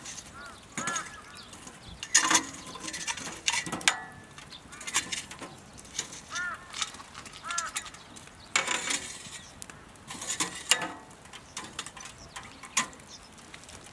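Firewood burning in a double-combustion fire pit, crackling with irregular sharp pops.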